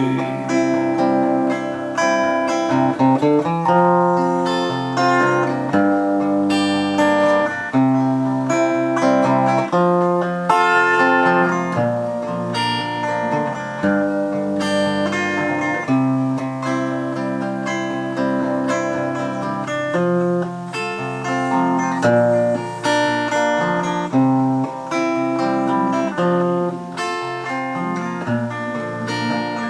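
Acoustic guitar playing a wordless closing passage of a folk song, picked melody notes over chords.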